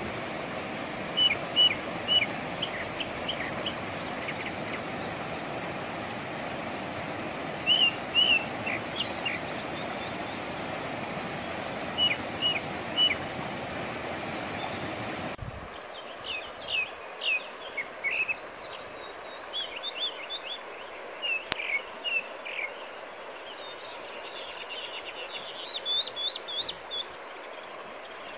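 Small birds chirping in short runs of two to four notes over a steady outdoor background hiss. About fifteen seconds in, the background suddenly drops quieter and the chirping carries on over it.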